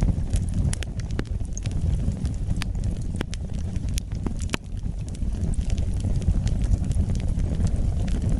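Wood fire burning with a low, steady rumble of flames and scattered sharp crackles and pops from the burning logs.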